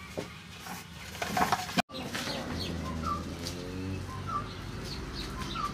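Birds chirping: short high calls every second or so, with a lower call in the middle. A few light knocks and clicks come just before a cut about two seconds in.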